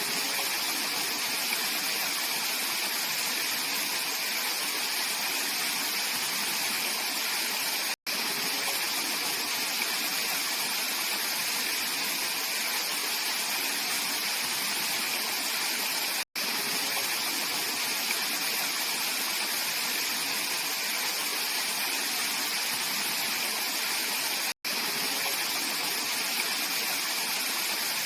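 Clear mountain stream rushing steadily over rocks in a valley, an even hiss of flowing water. The sound drops out for a split second three times, about eight seconds apart.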